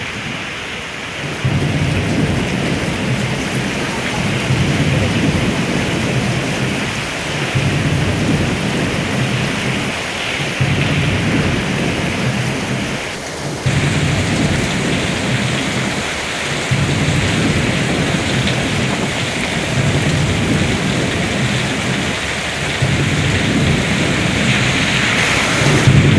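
Heavy rain pouring down steadily, with a low rumble that swells and fades every second or two.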